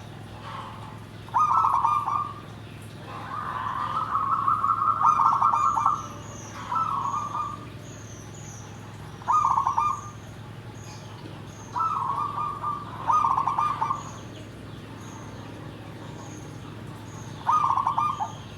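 Zebra dove (perkutut) cooing in loud phrases of rapid, rolling coos, seven times, the longest lasting about three seconds, a few seconds apart. Faint high chirps from a small bird repeat throughout, over a steady low hum.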